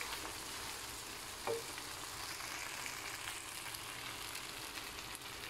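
Fried yellow noodles sizzling steadily in a wok while tongs toss them, with one brief louder sound about a second and a half in.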